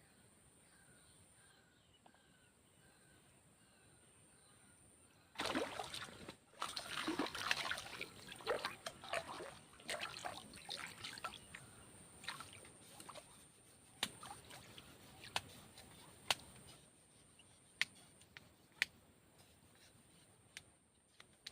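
Hooked fish splashing and thrashing at the water surface as it is pulled out on a fishing pole, starting suddenly about five seconds in, then thinning to scattered sharp taps and ticks as it is handled.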